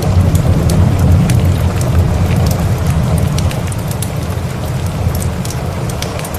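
Thunder rumbling low over steady rain: the rumble swells right at the start, is loudest about a second in and slowly eases off. Scattered sharp crackles of a log fire run through it.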